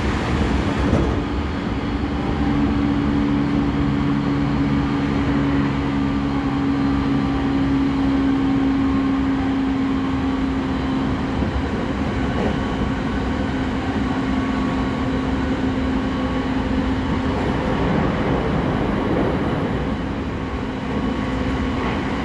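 Interior running sound of a JR East E217 series electric train's motor car, with its Mitsubishi IGBT-VVVF traction equipment. Wheels rumble on the rails under a steady hum from the motors and inverter, which weakens in the last few seconds.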